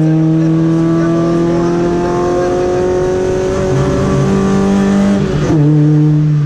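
Volkswagen Golf rally car's engine pulling hard under full throttle, its pitch climbing steadily for about five seconds. It then shifts up, and the revs drop before it pulls again.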